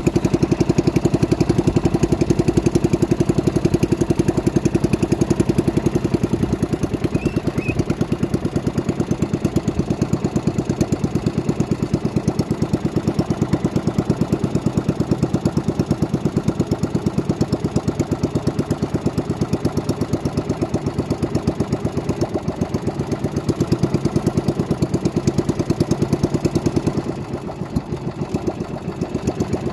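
Small boat engine running steadily with a fast, even pulse. It starts loud all at once, holds through, and gets a little quieter near the end.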